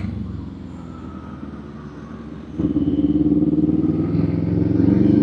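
Kawasaki Z400 parallel-twin engine running off the throttle. About halfway in, the throttle opens and the exhaust note jumps louder and rises slightly as the bike pulls away.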